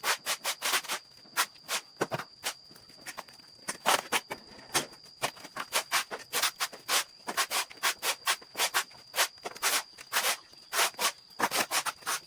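Rapid, irregular scraping or brushing strokes, several a second, like a tool or brush worked against a hard or leafy surface. A thin, steady high-pitched tone sits under them.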